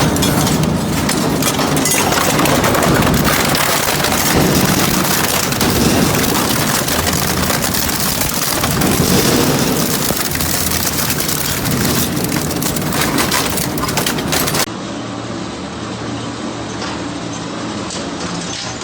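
Industrial metal shredder tearing through scrap metal: loud, dense crunching and grinding with many small cracks. About 15 seconds in it cuts abruptly to a quieter, steadier machine drone with a low hum.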